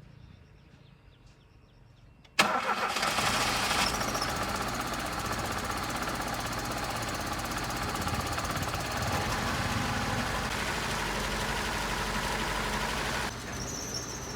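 A loud machine starts abruptly about two seconds in and runs steadily, dropping away shortly before the end.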